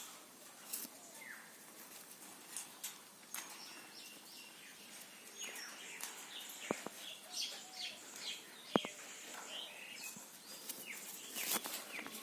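Pet parrot chirping: many short, quick chirps and downward-sliding calls that come thicker over the last few seconds, with a few sharp clicks in between.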